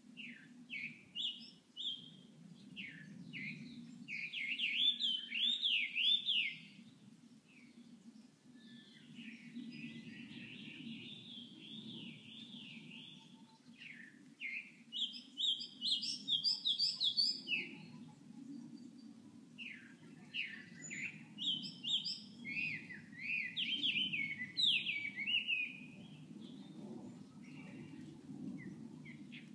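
A wild songbird singing in varied, warbling phrases a few seconds long, separated by short pauses, over a steady low background rumble.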